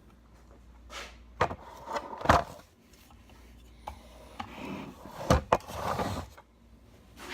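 Several sharp knocks and clatter of objects being handled, with rustling between them, over a low steady hum that stops about six seconds in.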